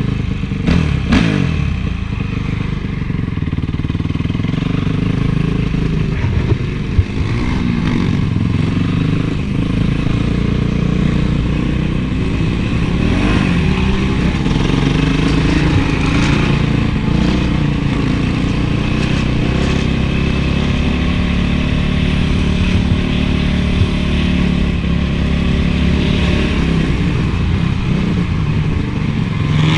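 Honda CRF450's single-cylinder four-stroke engine revving up and down as the motocross bike is ridden, its pitch rising and falling. A couple of sharp knocks come about a second in and again near seven seconds.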